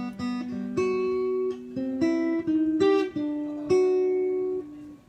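Guitar playing a song's opening: a run of picked notes and chords, each ringing on, with the last notes dying away near the end.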